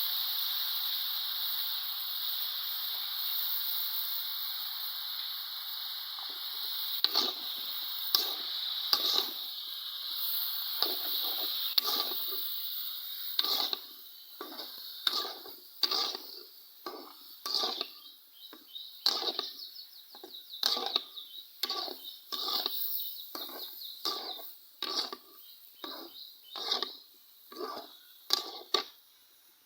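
Food sizzling in a cooking pan. From about seven seconds in, repeated sharp scraping strokes, about one or two a second, as the food is stirred against the pan.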